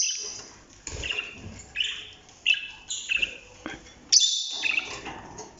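Budgerigars chirping and warbling, a string of short high calls.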